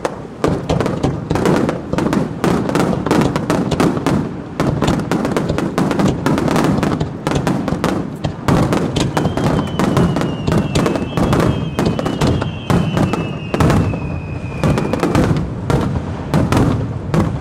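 Fireworks display in a dense barrage: shell bursts banging and crackling almost without a break. In the middle a thin high whistle runs for several seconds, falling slightly in pitch.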